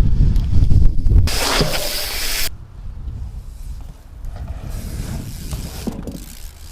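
Wind buffeting the microphone as a loud low rumble, easing off after about two and a half seconds, with a short loud hiss just before it eases.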